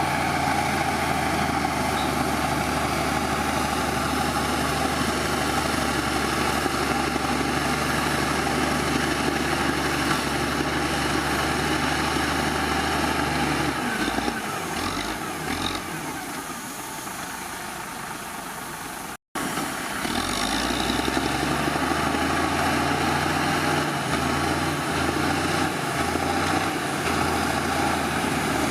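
Heavy diesel engine of earthmoving machinery running with a steady low drone. About halfway through the drone fades and the sound goes quieter. After a brief complete gap the drone returns at full strength.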